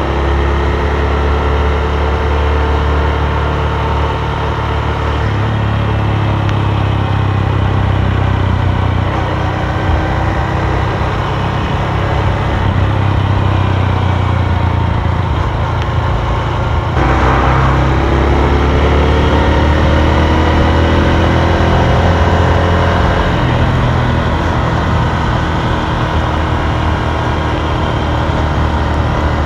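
Honda Super Cub's single-cylinder four-stroke engine running while riding, its note rising and falling with speed, over a steady low wind rumble on the microphone. About halfway through the sound changes abruptly and the engine note climbs again.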